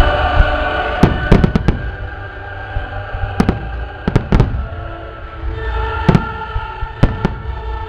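Fireworks going off in a string of sharp bangs, about a dozen, often two or three in quick succession, over background music.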